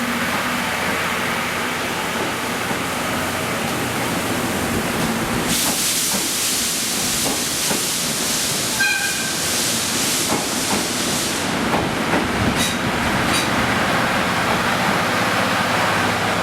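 Steam locomotive at a station: a loud hiss of steam starts suddenly about five seconds in and lasts about six seconds. A short, high tone comes near the middle of the hiss.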